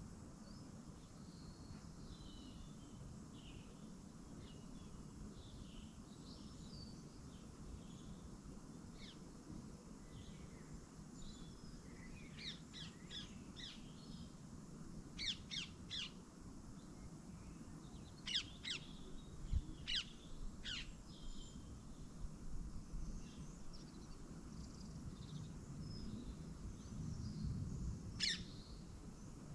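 Faint bird chirps: short clusters of quick, high calls, several in the middle stretch and one more near the end, over a steady low background hum.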